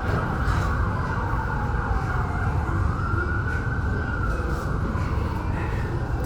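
A siren wailing, its pitch sliding slowly down over about two seconds and back up again, over a heavy low rumble.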